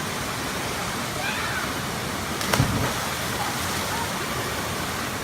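Steady rush of a waterfall, with a sudden splash about two and a half seconds in as someone lands in the pool below.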